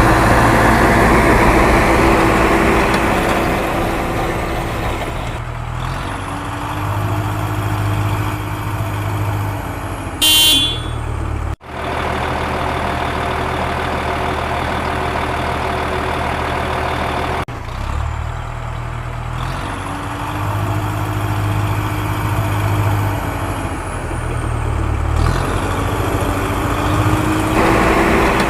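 Heavy diesel machinery running steadily, with the engine pitch swelling and easing twice, and a short horn blast about ten seconds in.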